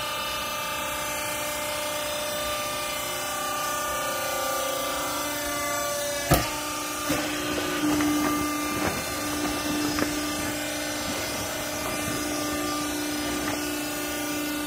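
Hydraulic scrap-cloth baler running with a steady machine hum. A sharp clank comes about six seconds in, followed by a few lighter knocks over the next few seconds.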